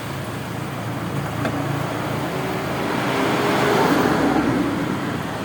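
Road traffic: a motor vehicle's engine and tyres passing by, growing louder to a peak about four seconds in and then fading.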